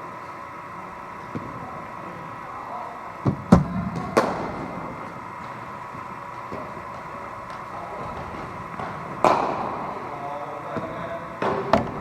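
Sharp knocks of a cricket ball during a bowling-machine batting session: a delivery being fired and struck about three and a half seconds in, another knock shortly after, and a second delivery about nine seconds in. Each knock rings briefly, over a steady hum.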